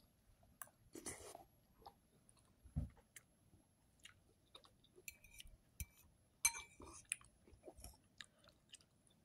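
A person quietly chewing a mouthful of greens, with scattered short mouth clicks and a couple of louder bursts about a second in and about six and a half seconds in.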